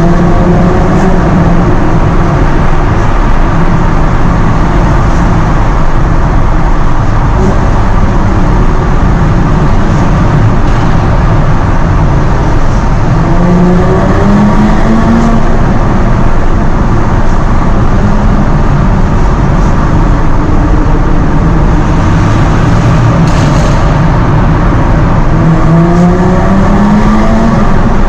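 Jaguar F-Type sports car engine and exhaust running while driving, over road noise. The engine note climbs in pitch midway and again near the end as the car accelerates.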